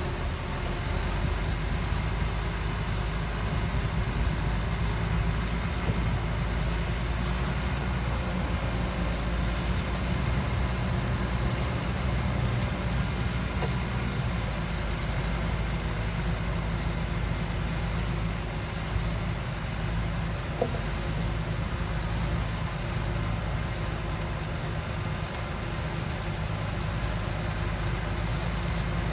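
Heavy diesel engine of earthmoving machinery running steadily, with a single brief click about twenty seconds in.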